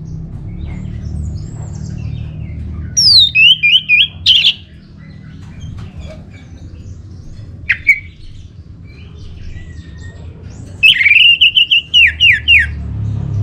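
Orange-headed thrush singing: loud phrases that open with a falling whistle and run into quick repeated notes, one about three seconds in and a longer one near the end, with a single sharp note between them. A low steady rumble runs underneath.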